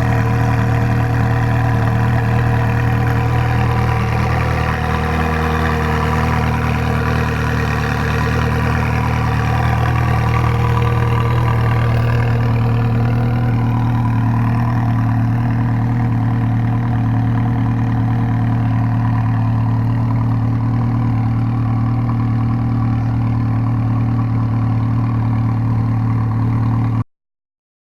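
Ferrari 360 Challenge Stradale's 3.6-litre flat-plane V8 idling steadily, then the sound cuts off suddenly near the end.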